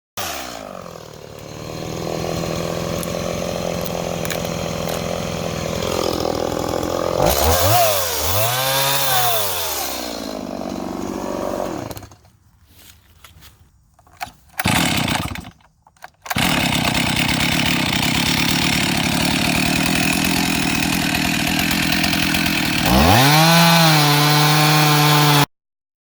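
Two-stroke chainsaw mounted in a Granberg chainsaw mill, running under load as it rips along a log. The engine revs rise and fall about a third of the way in and climb again near the end; the sound drops out in patches around the middle and cuts off abruptly near the end.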